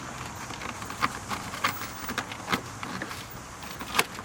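Scattered clicks and knocks of hand work on a rubber intake hose and its clamp at a car's throttle body, the loudest near the end, over a steady low hum.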